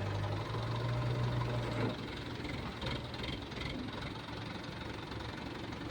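Excavator's diesel engine running under load, its low steady note easing and dropping in level about two seconds in.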